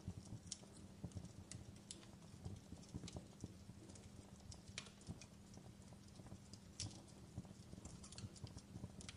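Wood fire crackling: irregular small pops and snaps, some sharper than others, over a faint low rumble.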